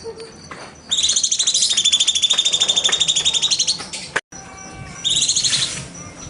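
Cucak cungkok bird singing: a fast, harsh chattering trill of roughly a dozen notes a second that runs about three seconds, then breaks off and comes back as a shorter burst about five seconds in.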